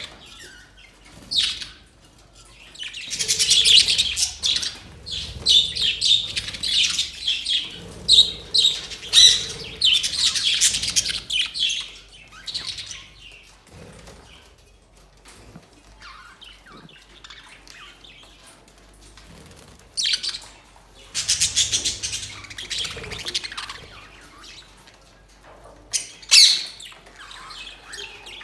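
A flock of budgerigars chirping and chattering, in loud busy bursts with quieter spells between.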